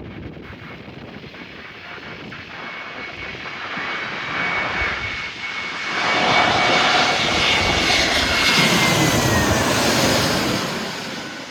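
Jet airliner flying past: the engine noise builds for about six seconds, stays loud for several seconds with a steady high whine that drops in pitch as the plane goes by, then fades.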